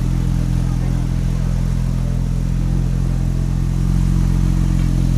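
A car engine idling steadily with a low, even hum that does not change in pitch.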